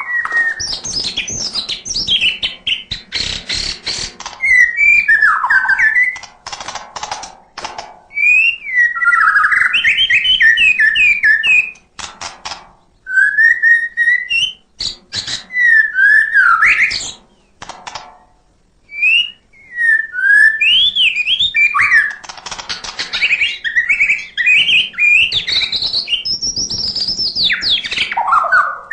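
White-rumped shama (murai batu) singing a long, varied song full of mimicked fills: whistled phrases that slide up and down, mixed with fast clicking rattles and broken by a couple of brief pauses.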